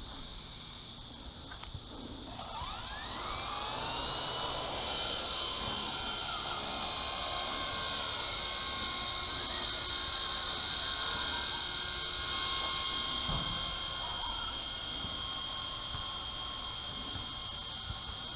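WLToys V915 fixed-pitch RC helicopter's electric motor and rotor spooling up, a whine that rises about two and a half seconds in, then running at a steady pitch in flight.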